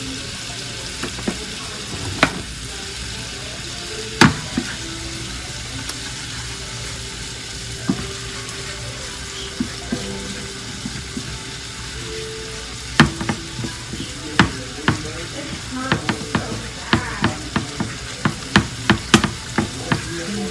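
Sausage and flour sizzling in a frying pan as the roux for sausage gravy cooks, stirred with a utensil that clicks and scrapes against the pan, a few times early and then in quick succession in the second half.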